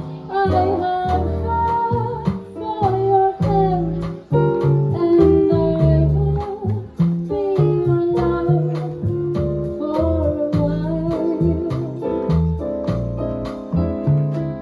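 Live jazz combo playing a slow tune: double bass notes underneath, steady drum and cymbal strokes, keys, and a melody line sliding and wavering in pitch above.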